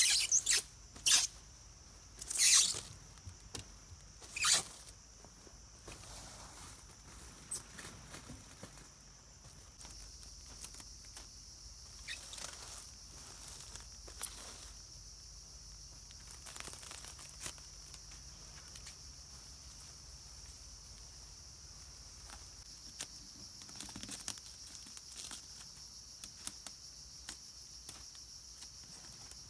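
Scattered rustling and crackling of hands working with materials, with several sharp crackles in the first five seconds and fainter ones later, over a steady high-pitched forest insect drone.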